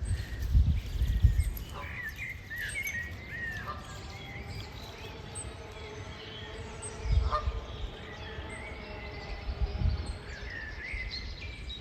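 Small birds chirping and singing in short phrases, strongest about two seconds in and again near the end, over a steady outdoor background. A few brief low rumbles on the microphone are the loudest sounds, at the start, around seven seconds and around ten seconds.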